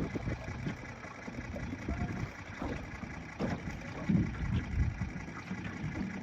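Wind buffeting the microphone: an uneven low rumble that swells and drops in gusts, strongest about four seconds in.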